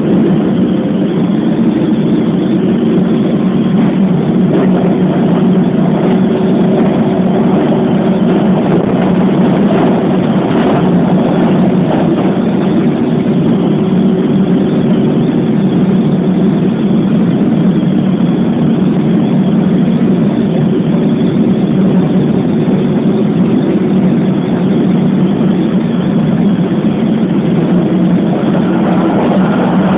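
Keikyu New 1000 series electric train running steadily, a continuous rumble of wheels on rail and motor drone heard from inside the front car. Picked up on a flip phone's microphone, so it sounds dull and cut off at the top.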